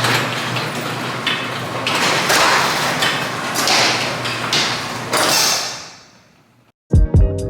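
A loud, steady rushing noise with a low hum underneath and several knocks, fading out about six seconds in. Music with a strong beat starts near the end.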